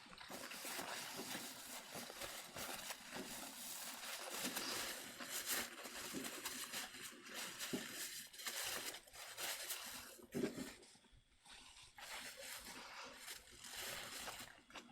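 A lit firework hissing and crackling steadily, with a short lull about eleven seconds in.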